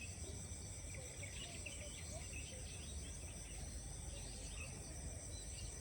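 A morning rice-field chorus: insects keep up a steady high drone, with scattered short bird chirps throughout and a low rumble underneath.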